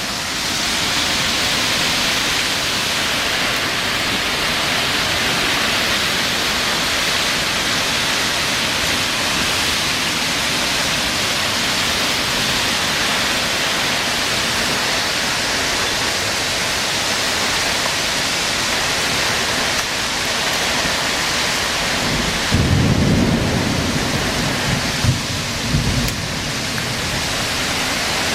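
Heavy rain pouring down steadily in a thunderstorm, with a loud rumble of thunder about three quarters of the way through, ending in a couple of sharp cracks.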